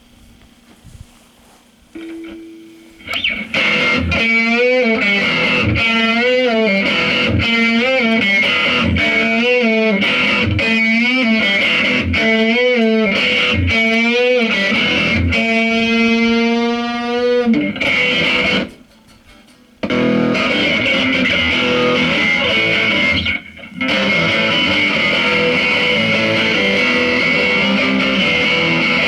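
Electric guitar through effects pedals, distorted and wavering: after a quiet start, a bending, warbling phrase repeats about every second and a half, ends in a held note and cuts out suddenly, then returns as a dense, steady wash of distorted noise.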